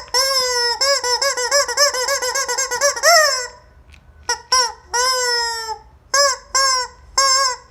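Squeaky rubber chicken toy squeezed over and over: a fast run of short squawks for about three seconds, ending in a rising squawk, then about six separate squawks, some short and some held for up to a second.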